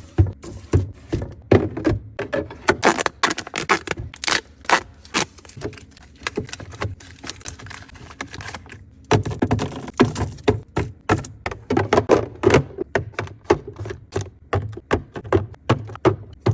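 Rapid, irregular taps, clicks and knocks of food containers, bottles and packaging being handled and set down while a fridge is stocked and organized, with a brief pause about nine seconds in.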